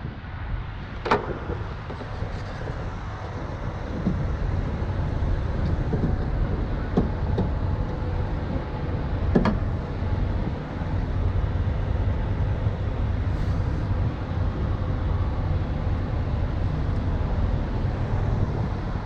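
Large diesel truck engine running steadily with a low rumble, with a few sharp knocks about a second in and again around seven and nine seconds in.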